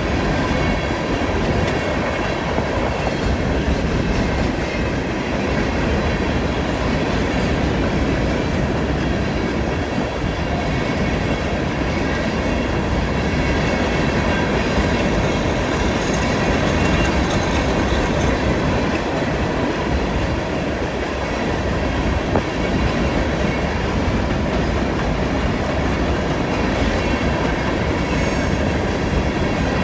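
Cars of a CN train rolling past on a curve: a steady rumble with wheel clatter over the rail joints, and faint high wheel squeal at times.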